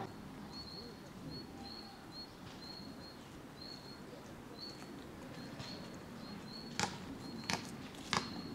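A bird repeating a short, high, steady-pitched note about twice a second over faint outdoor background noise. Near the end, footsteps crunch on a gravel path, about four steps.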